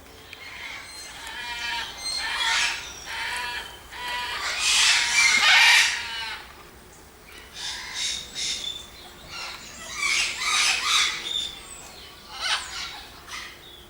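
Aviary birds calling loudly in repeated bursts, several calls overlapping, with a short lull about halfway through.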